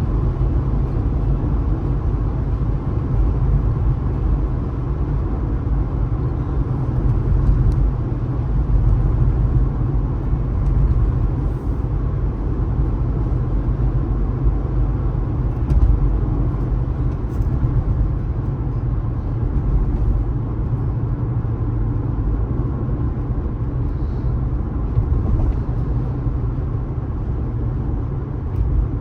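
Car driving at steady highway speed: a constant low rumble of road and engine noise.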